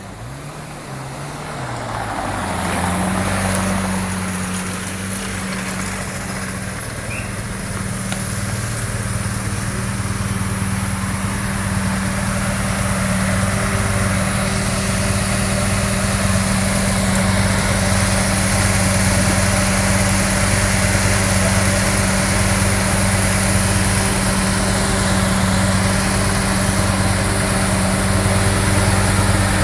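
Lamborghini Murciélago V12 engine idling. It grows louder over the first few seconds as the car rolls up, then holds a steady, even idle heard close to the exhaust.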